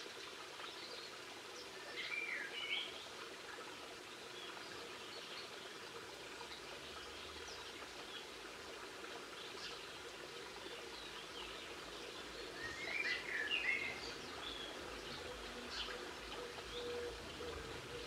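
Small birds calling: scattered short chirps throughout, with two louder twittering phrases, one about two seconds in and another about thirteen seconds in.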